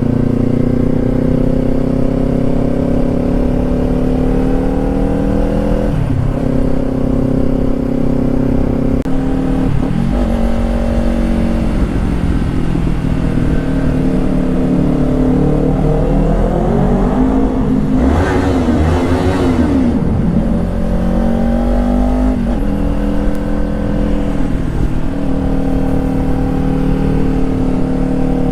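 Motorcycle engine running at road speed, its pitch climbing and then dropping back at gear changes about 6 and 10 seconds in, over a steady low rumble. Around 18 seconds in comes a louder swell with tones bending up and down against each other.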